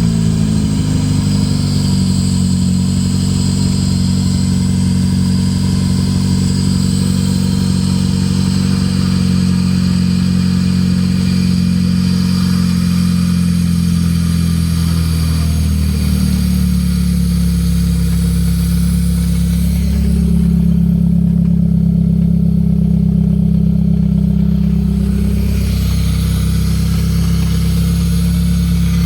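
Hyundai Alpha SOHC inline-four engine, swapped into a 1979 Fiat 133, running at a steady idle. The revs settle down at the start, dip slightly about halfway through, then hold a little higher for about five seconds near the end before falling back to idle.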